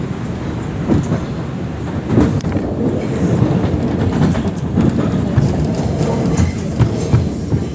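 R142 subway car running at speed, heard from inside the car: a steady low rumble with irregular clacks of the wheels over rail joints. A faint high whine stops about two seconds in.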